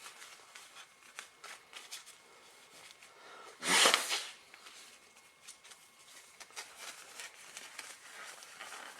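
Faint clicks and rustling of hands and tools at work, with one loud, short hissing burst about three and a half seconds in.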